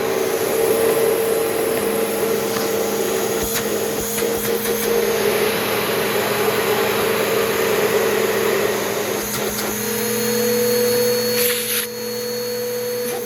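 Bissell PowerGroom Multi-Cyclonic upright vacuum cleaner running over carpet: a steady motor hum with the rush of suction. About ten seconds in the motor note rises slightly, and shortly after the level briefly dips.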